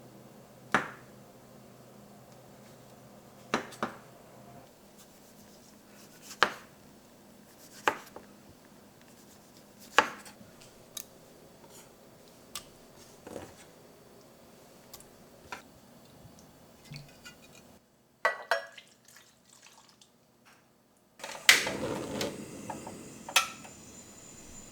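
Dishes and kitchen utensils clinking on a counter: a string of single sharp clinks with a short ring, one every couple of seconds, then a busier clatter near the end.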